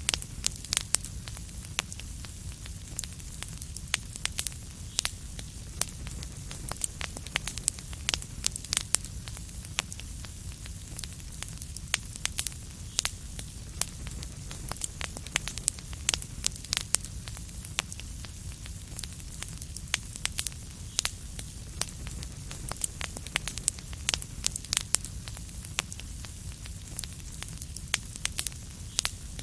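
Wood fire burning in a fireplace: a steady low rumble and hiss with many irregular sharp crackles and pops.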